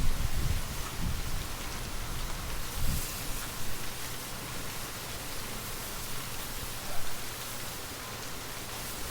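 Steady rainfall, with low gusts of wind rumbling in the first second and again around three seconds in before settling to an even patter.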